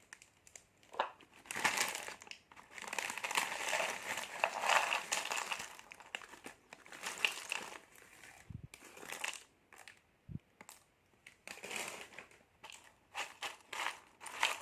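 Small plastic seblak snack packets crinkling as they are handled and pulled open, in irregular bursts of rustling with short pauses between.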